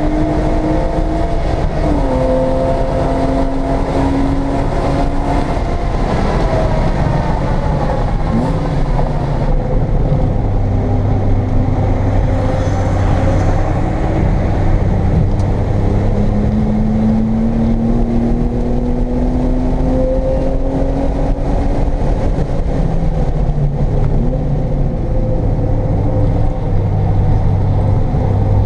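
1995 BMW M3's 3.0-litre straight-six heard from inside the cabin under hard track driving, its pitch stepping and gliding up and down as the car accelerates, shifts and slows for corners, with a lower steady stretch through a slow turn in the middle. Wind and road noise run under it throughout.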